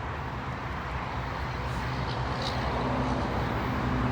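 Welded rail train passing at speed: a steady rumble of wheels on rail, with a diesel locomotive's low engine drone growing stronger toward the end.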